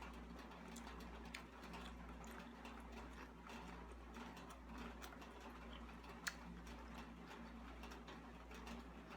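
Faint eating sounds over a steady low hum: quiet chewing and mouth noises with scattered light clicks, a couple of them sharper.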